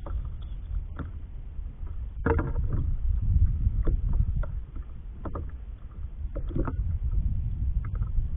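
Kayak being paddled: short knocks and splashes from the paddle come roughly every second and a half over a constant low rumble on the microphone.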